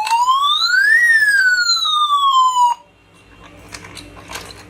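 Electronic siren of a battery-powered toy police car wailing: one slow rise in pitch and then a slower fall, cutting off suddenly a little past halfway. Faint clicks follow.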